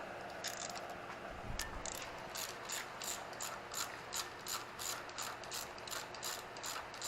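Hand ratchet clicking in steady strokes, about three clicks a second, as the rocker-assembly bolts on a Subaru EJ253 SOHC cylinder head are run down. A single low knock comes about a second and a half in.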